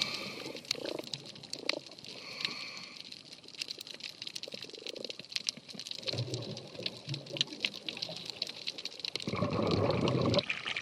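Underwater sound of a scuba diver on a coral reef: soft bubbling and gurgling from the breathing regulator, with many faint scattered clicks throughout. A louder rush of exhaled bubbles comes about nine seconds in.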